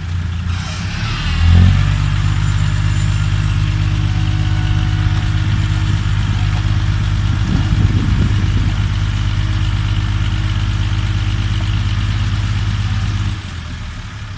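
Six-wheel dump truck's diesel engine idling, then revving up about a second and a half in and held steady at a higher speed, dropping back to idle near the end. A brief rattle is heard about eight seconds in.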